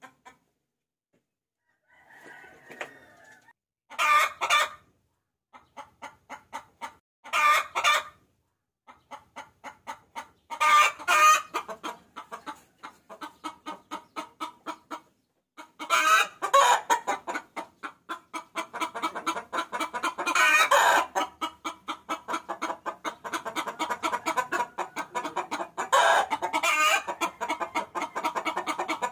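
Hen clucking and cackling, used as a lure call for roosters. After a quiet start it gives runs of quick short clucks broken by louder drawn-out cackles every few seconds, and the clucking turns rapid and almost nonstop in the second half.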